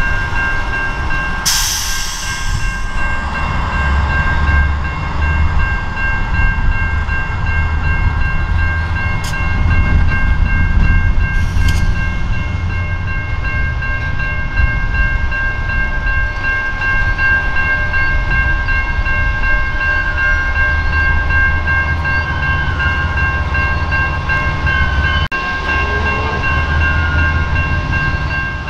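Ballast work train creeping past: a steady low rumble with a constant high-pitched whine held throughout, and a short burst of hiss about two seconds in.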